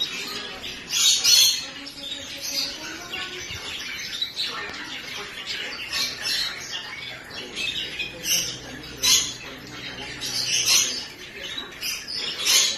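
Birds squawking and chirping: short, harsh, high calls repeating every second or so, loudest a little after the start and near the end.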